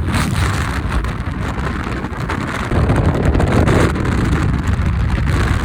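Storm-force wind buffeting the microphone, a steady low rumble that swells into a stronger gust about three seconds in.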